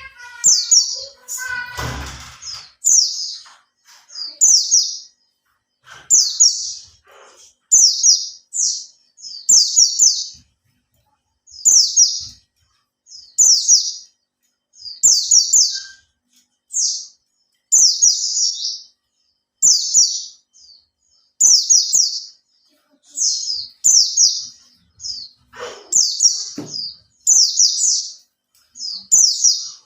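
A white-eye (pleci) sings a run of short, high, twittering phrases, about one a second. There is a brief rustle or knock about two seconds in.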